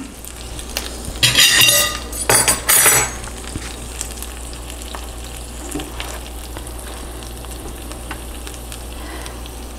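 Folded cheese quesadilla sizzling in a hot nonstick frying pan, with two louder rushes of scraping and sizzle about a second and two and a half seconds in as the spatula presses on it, then a steady quiet sizzle.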